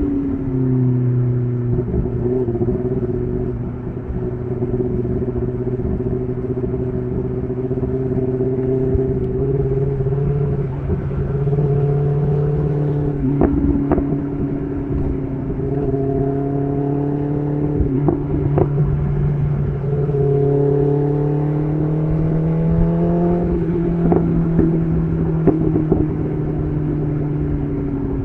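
BMW S1000RR's inline-four engine, heard through an SC Project titanium exhaust, running at fairly steady revs. The pitch rises and falls gently with the throttle, and there are a few sharp clicks along the way.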